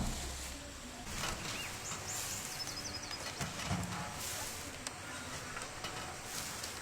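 Outdoor ambience with scattered rustling and handling noises, and a quick run of short, high bird chirps about two and a half seconds in.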